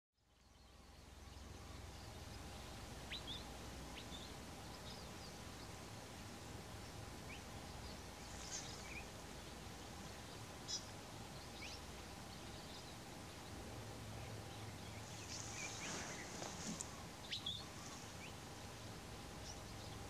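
Faint outdoor ambience: a steady low hiss with scattered short, high bird chirps and calls, a few at a time, busiest near the end.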